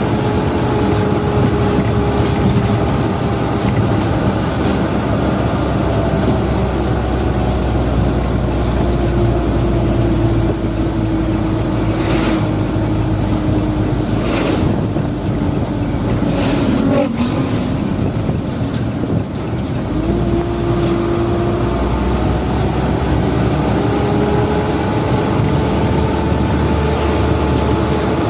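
Dump truck engine running while the truck is driven, its note slowly falling, then rising again about twenty seconds in before easing down once more.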